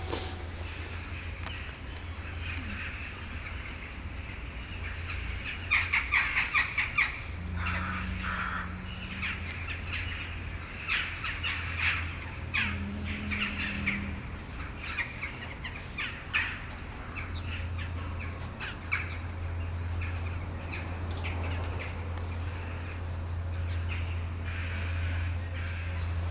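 Birds calling: a quick run of harsh, clipped notes about six seconds in, then scattered single harsh calls, over a steady low hum.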